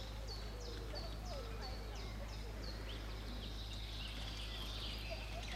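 A small bird singing: a run of short, high, downward-sliding chirps, about three a second, giving way to a faster twittering warble about three seconds in. A steady low rumble runs underneath.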